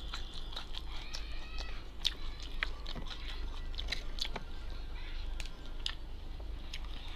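A person chewing food close to the microphone: a steady run of wet mouth clicks and smacks with some crunching.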